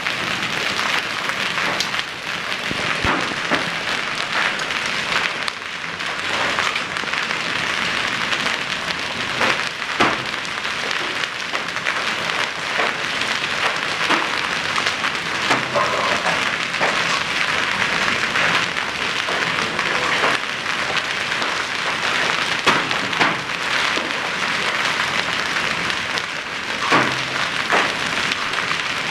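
Hailstorm: hailstones pelting down in a dense, steady clatter, with frequent sharper individual cracks of hail striking hard surfaces.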